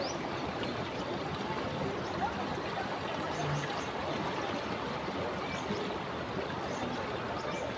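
Ganges river water flowing, a steady, even wash of noise.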